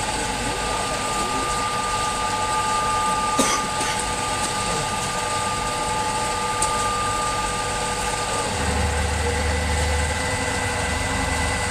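CNC stone cutting and polishing machine running with a steady hum and a high whine. About eight and a half seconds in, the whine stops and a deeper hum and a different higher tone take over. There is one sharp click a few seconds in.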